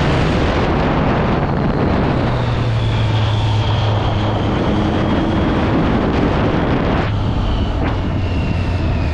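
Triumph Street Triple 675's three-cylinder engine running through its stock exhaust while riding, the engine note held fairly steady and shifting lower partway through, with wind noise on the microphone.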